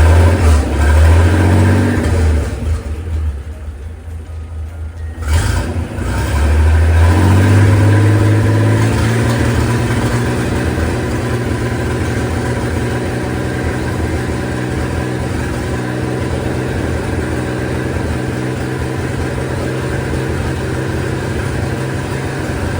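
A freshly overhauled Chris-Craft Model W six-cylinder marine engine, a marinized Hercules, running on its first start after rebuild. Its revs sag about two seconds in, and there is a single sharp crack about five seconds in. It then picks up again and settles to a steady run.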